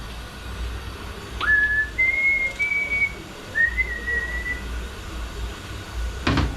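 A person whistling a short run of about four held notes. Near the end come a couple of sharp knocks.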